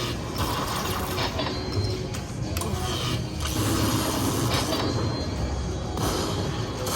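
Slot machine bonus-round music and electronic tones over the steady din of a busy casino floor.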